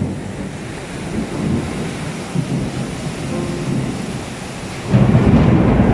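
Heavy thunderstorm: steady downpour with thunder rumbling, the low rumble growing suddenly louder about five seconds in.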